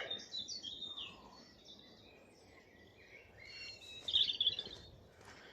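Wild songbirds singing in a mix of short high chirping phrases, with a louder trilled phrase about four seconds in.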